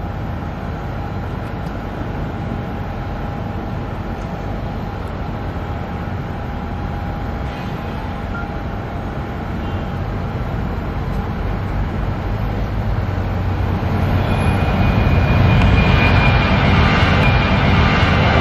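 Airliner jet engines running up for takeoff: a steady rush with a thin whine, growing louder about three-quarters of the way through.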